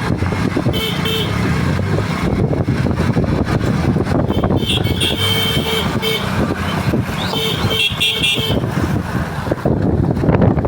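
Steady road traffic noise with a vehicle horn honking three times: briefly about a second in, a longer blast around the middle, and again about three seconds later.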